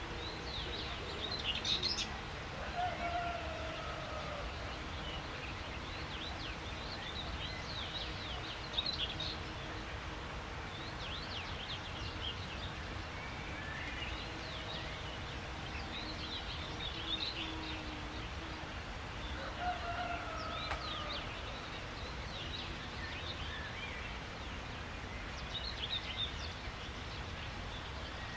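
Songbirds chirping and twittering in scattered bursts, with a short falling whistle twice, over a steady low background noise.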